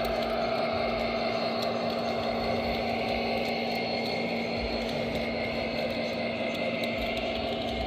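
BNSF freight train rolling past: a steady rumble of wheels on rail with a steady low hum running under it.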